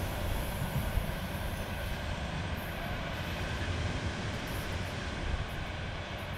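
Steady rumble of a passenger train receding down the electrified coastal line, with wind buffeting the microphone.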